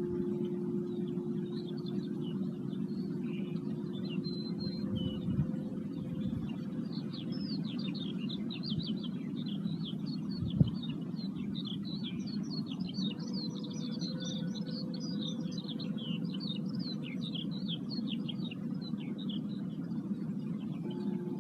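Birds singing outdoors, a rapid, unbroken twittering that thickens from about a third of the way in, over a low steady rumble. Faint sustained singing-bowl tones fade early and return near the end, and there is a single knock about halfway.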